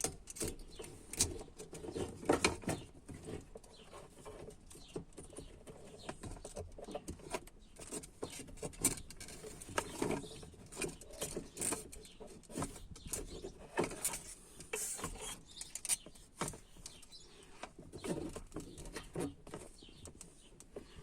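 BMW E39 fuel pump assembly being worked out of the fuel tank by hand: scattered clicks, knocks and rattles of plastic and metal parts.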